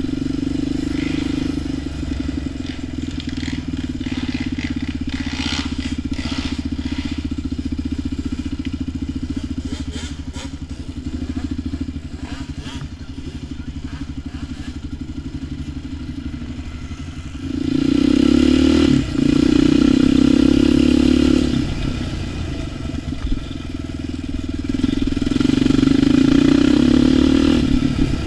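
ATV engine running steadily at part throttle, with scattered clatter and knocks, then opened up louder twice in the second half.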